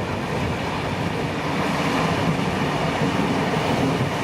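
Steam-hauled passenger train running on the rails, a steady noise of wheels and carriages.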